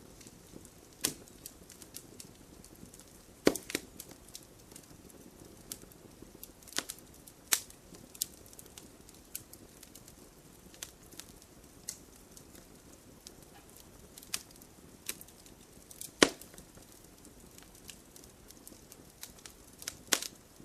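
Wood fire crackling in a fireplace: irregular sharp pops and snaps over a low hiss, with loud pops about three and a half seconds in and again near sixteen seconds.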